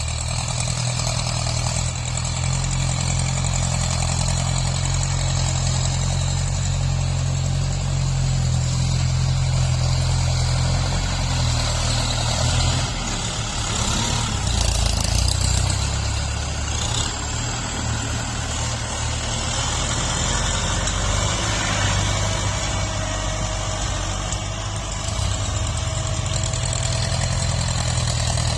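Tractor diesel engine running while grading soil, its pitch and load shifting a few times, with a steady mechanical clatter and rumble.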